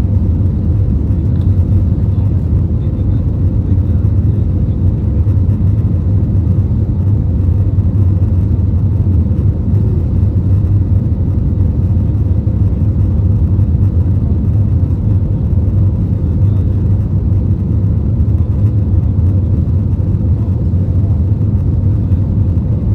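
Steady cabin noise inside a China Eastern Airbus A320neo powered by CFM LEAP-1A26 engines: an even, unbroken low rumble of engines and airflow, with a faint steady hum above it.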